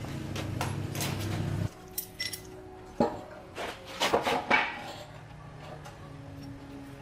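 A steady low machine hum cuts off abruptly about a second and a half in. It is followed by metal tools and engine parts clinking and knocking, with a quick cluster of clinks a little past the middle.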